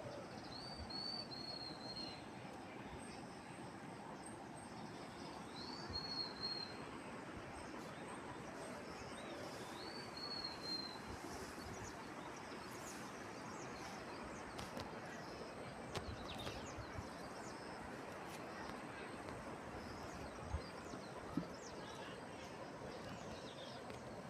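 Steady outdoor ambient noise with a small bird calling three times, each call a quick run of high chirping notes, spaced about four to five seconds apart in the first half; a few faint clicks later on.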